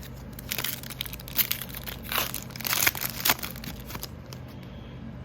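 Crinkling and rustling of a foil trading-card pack wrapper being handled, in a series of rustles over about three seconds. A steady air-conditioner hum runs underneath.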